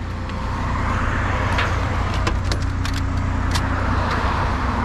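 Motor vehicle engine running with road noise as it drives, a low steady hum with a broad rushing noise, and a few light clicks and rattles.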